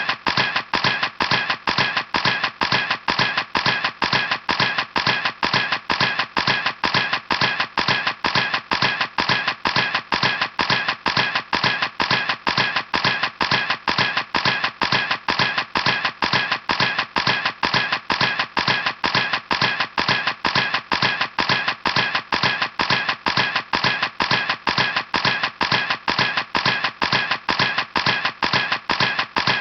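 Camera shutter clicking over and over in a fast, perfectly even rhythm, about three clicks a second.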